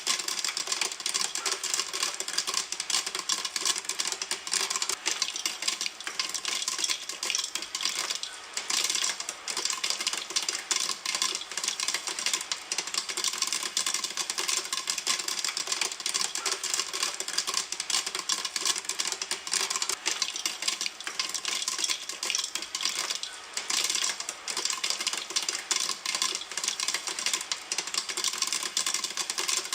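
Popcorn kernels popping in a pan: a dense, rapid crackle of overlapping pops that keeps going, thinning only briefly twice.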